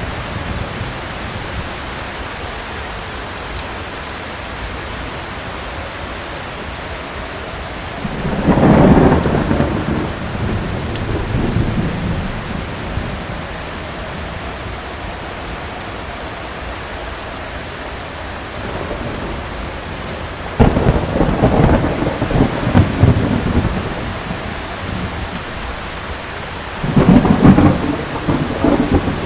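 Heavy rain falling steadily, with thunder rumbling three times: once about a third of the way in, in a longer rolling stretch past the middle, and once more near the end, the last rumbles the loudest.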